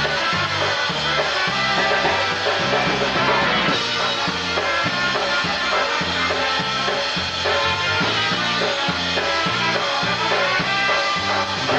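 Live polka band playing an instrumental passage, with a steady oom-pah bass beat under the melody instruments.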